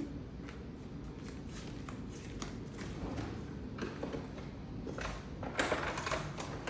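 Faint handling noises from small bird-feeder parts: a few light taps and clicks, with a stronger rustle about five and a half seconds in.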